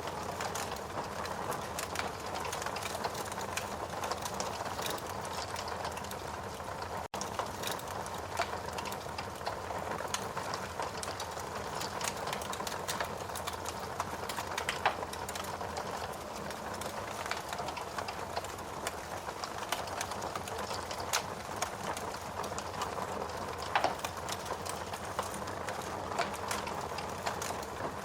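Logs burning in a fireplace: a steady hiss of flames with frequent small crackles and a few louder pops, one midway and one late. The sound cuts out for a split second about seven seconds in.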